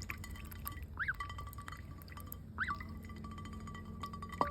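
Young goose giving two short, soft peeps that rise and fall, about a second and a half apart, over quiet clicking of its bill as it eats and dabbles.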